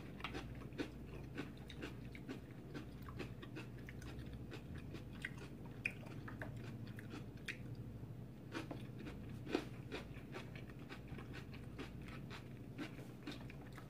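Close-up chewing of a mouthful of bell-pepper and jalapeño nachos: a steady run of small, sharp mouth clicks and crunches, with one louder click about nine and a half seconds in.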